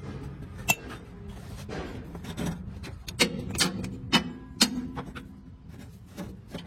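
About half a dozen sharp metallic clinks and knocks, irregularly spaced and bunched in the middle, from tools and parts being worked on a truck's suspension while fitting a centre bolt.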